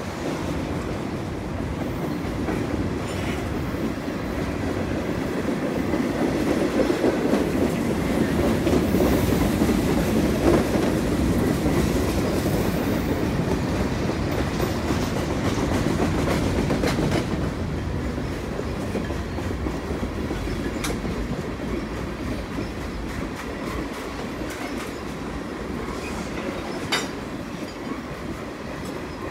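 CN freight train's cars rolling past: a steady rumble of steel wheels on rail with clickety-clack over the joints. It grows louder through the middle, then eases off, with sharper clicks in the second half.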